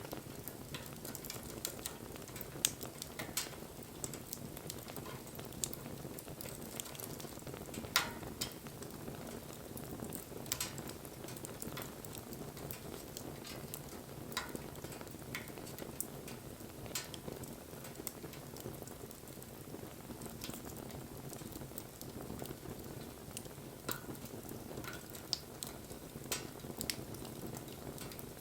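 Wood bonfire burning: a steady low rush of flame with irregular sharp crackles and pops, the loudest about eight seconds in.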